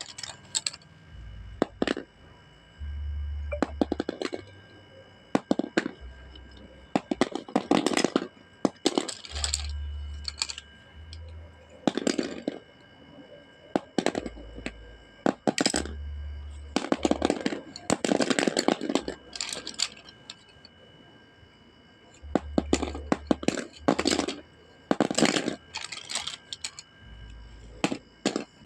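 Coloured pencils dropped again and again onto a whiteboard, clattering in bursts of rapid sharp clicks every one to two seconds. Many of the drops carry a dull low thud.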